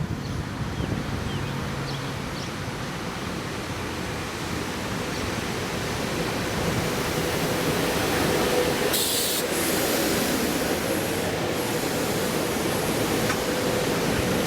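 Passenger train running at the station platform, a steady rumble that grows louder partway through, with a faint steady whine joining it and a brief hiss about nine seconds in.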